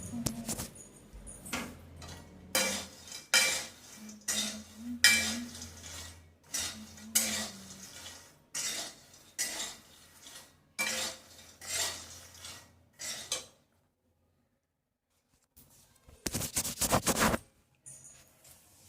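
Metal kitchen utensils and dishes clattering and scraping in a run of short strokes. They stop briefly about two-thirds through, then come back with a longer, louder scrape near the end.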